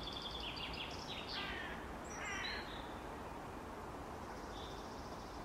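Small birds chirping faintly in the background, a few short high calls and quick falling trills in the first half, over a low steady hiss.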